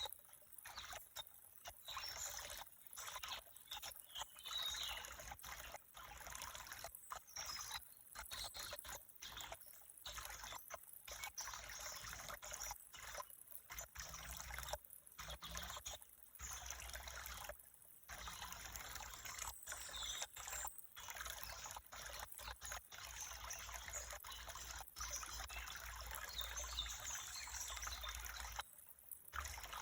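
Water trickling steadily, as of a small stream or rivulet. The sound is broken by many brief dropouts throughout.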